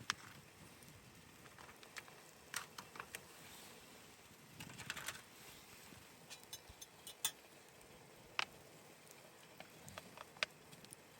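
Irregular light clicks and taps, a dozen or so scattered unevenly, over a faint steady hiss.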